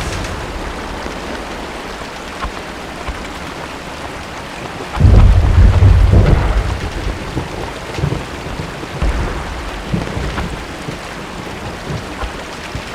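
Steady rain, with a loud deep boom about five seconds in that rumbles for a second or so, followed by several fainter low booms.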